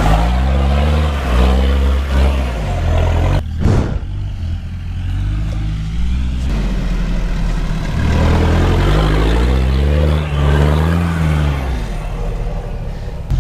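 Off-road 4x4 engine revving up and down again and again under load. There is a sharp break a little under four seconds in, then a quieter stretch before the revving picks up again.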